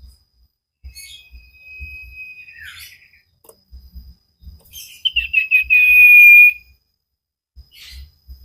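A bird whistling. First comes a long steady note that slides down at its end. Then, around five seconds in, a quick warble runs into a loud, long held whistle, with faint low thumps underneath.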